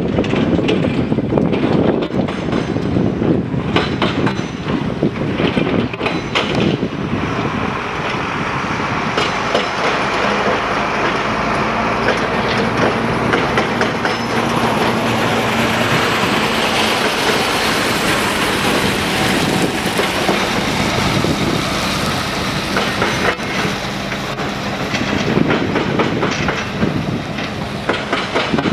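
Loud, continuous rumble and rattle of a heavy vehicle in motion, with clattering throughout and a steady engine hum in the middle stretch.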